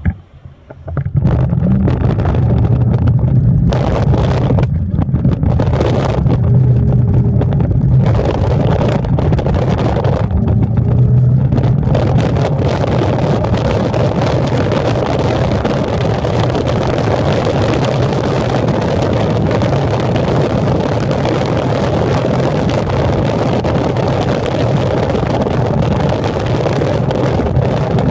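Train pulling out and running. A low steady hum sets in about a second in, and a rushing noise thickens from about twelve seconds on as the train gathers speed.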